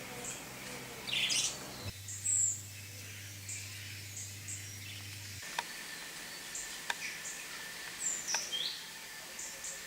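Lovebirds chirping: short, high chirps and squeaks scattered throughout, with a few sharp clicks in the second half.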